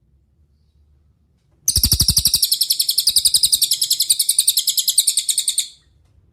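Cililin songbird singing a fast, high-pitched trill of rapidly repeated notes. It starts almost two seconds in, lasts about four seconds and cuts off suddenly.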